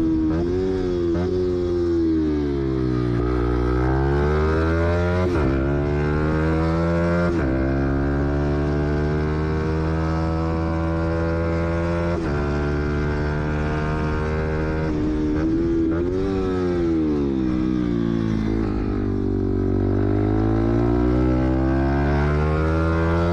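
Fantic XMF 125 motard's single-cylinder four-stroke engine being ridden hard, revs climbing and falling with short breaks between gears in the first third, holding steady through the middle, then dropping and climbing again near the end.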